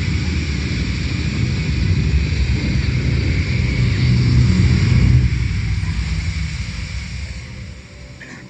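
Low, steady rumbling noise that fades away near the end.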